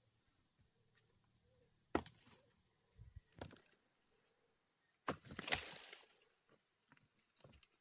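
Two sharp knocks, about two and five seconds in, each followed by about a second of gritty scraping, with smaller knocks in between and near the end.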